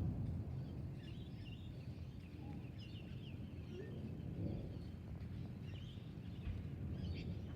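The tail of a thunderclap rumbling away over the first second, leaving a faint low rumble, with small birds chirping in short calls throughout.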